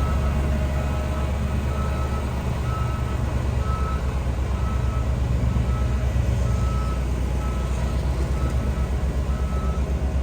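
Bulldozer's diesel engine running steadily under load, with its reversing alarm beeping over it at an even pace, about one and a half high beeps a second.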